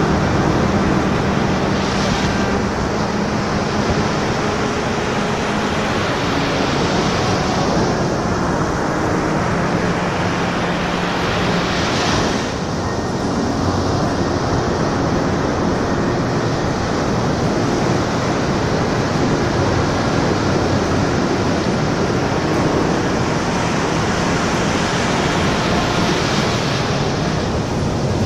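Ocean surf breaking on a beach: a continuous rush of water with waves swelling and washing in every several seconds.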